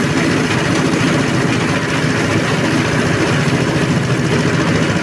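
SM-30 multifunction grass chopper and shredder running steadily at constant speed, a loud unbroken machine drone.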